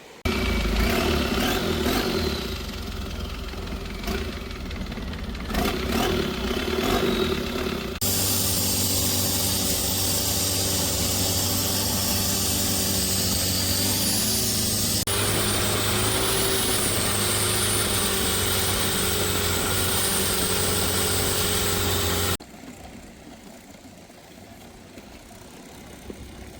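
A motor engine running steadily and loudly, in several cut-together clips that change abruptly about 8, 15 and 22 seconds in, then quieter background noise.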